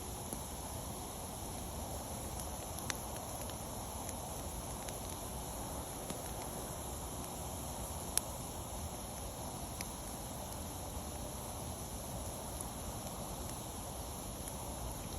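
Wood fire burning with a steady hiss and a few sharp crackling pops, the loudest about eight seconds in.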